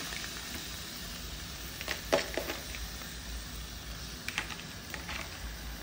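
Shrimp and browned onion sizzling steadily in olive oil in a pan, with a few sharp clicks of a utensil against the pan around the middle and near the end.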